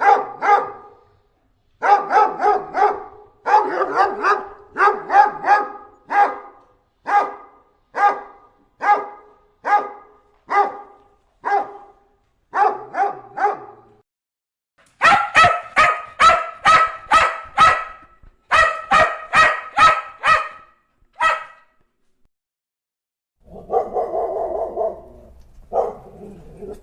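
Dogs barking. For about fourteen seconds there are single barks a little under a second apart, sometimes in quick doubles. After a short pause come sharper, higher-pitched barks at about three a second, then a gap, then a longer, drawn-out vocalisation near the end.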